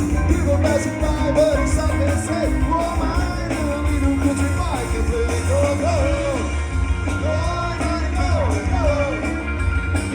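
Live rock band playing loud with drums and heavy bass, and a lead line, a singing voice or lead guitar, bending up and down in pitch over it.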